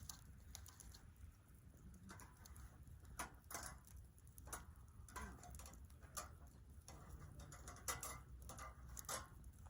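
Faint, irregular crackling and popping of a wood campfire, with a few sharper pops about three seconds in and near the end.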